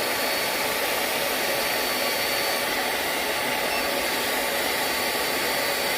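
Hoover Blade Max cordless stick vacuum's brushless digital motor running steadily on max mode: a high, steady whine over rushing airflow.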